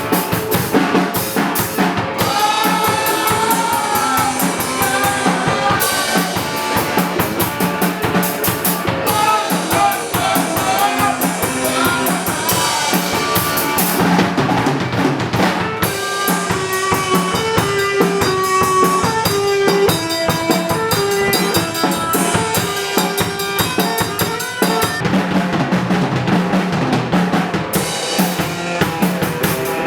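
Rock music: a drum kit with snare and bass drum keeping a steady beat under pitched instrument lines.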